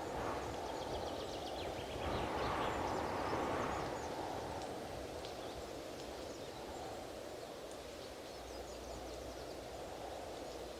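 Strong wind blowing in gusts, a dense low rushing that swells about two seconds in and then eases. Faint, short high chirps sound over it.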